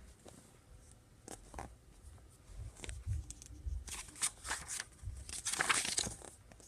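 Pages of a picture book being turned and handled: several soft paper rustles and taps, the longest about five and a half seconds in.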